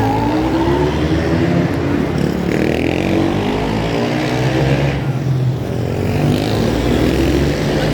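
Supermotard race motorcycles running hard, their engines rising and falling in pitch again and again as they accelerate and shift through the gears.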